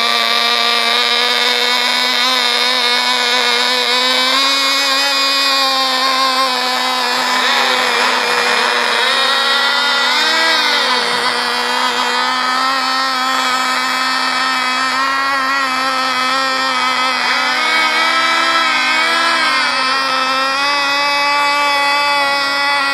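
Model aircraft glow engine on high-nitro fuel running steadily at high revs, a high-pitched engine whine with small wavers in pitch about ten seconds in and again later.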